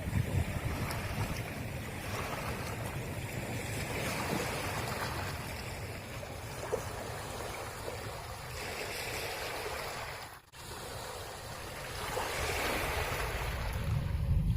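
Sea waves washing on the shore, swelling and fading every few seconds, with wind buffeting the microphone near the start and end. The sound drops out briefly about two-thirds of the way through.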